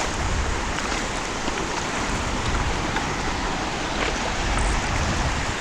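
Sea water washing and sloshing close to the microphone as a surfer paddles out through shallow surf, with a steady low wind rumble on the microphone.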